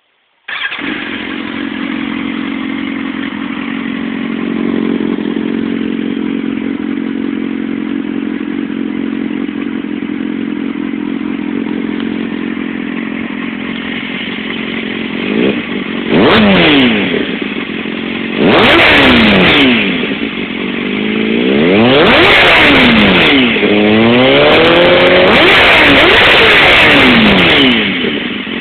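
Kawasaki ZX-6R 636 inline-four engine through a Yoshimura RS5 exhaust, idling steadily and then revved: a few quick blips past the middle, then longer, louder revs rising and falling, dropping back to idle near the end.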